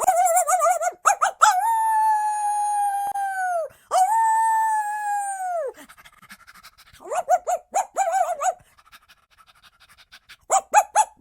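A child imitating a dog with his voice: two long howls, each held steady for about two seconds before its pitch drops away, with short quick yips at the start and again near the end.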